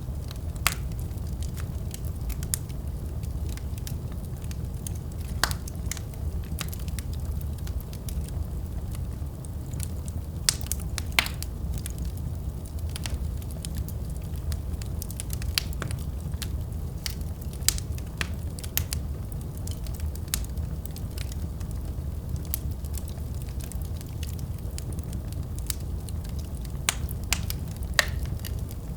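Wood fire in a fireplace crackling: irregular sharp pops and snaps, a few louder ones, over a steady low rumble.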